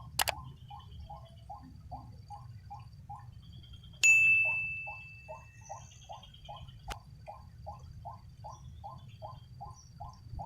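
A steady run of short, low, pulsed calls, about three to four a second, with a sharp metallic ding about four seconds in that rings on and fades over two to three seconds. There is a click just after the start and another as the ringing stops.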